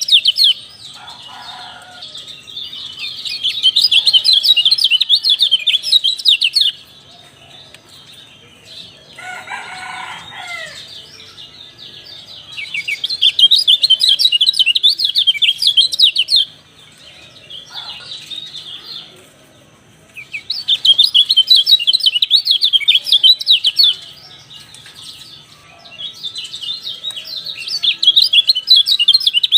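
Kecial birds giving rapid, high twittering chirp calls in bursts a few seconds long, separated by quieter pauses. About ten seconds in, a lower, falling call from another bird sounds in one of the gaps.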